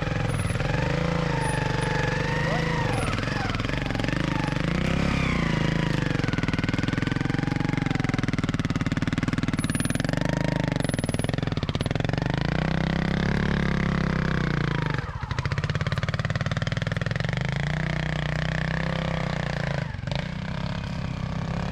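Two-stroke single-cylinder engine of a TRS RR 300 sidecar trials bike, revving up and down under throttle as the outfit climbs slowly through a section. The engine note rises and falls again and again, with short drops at about two-thirds of the way and near the end.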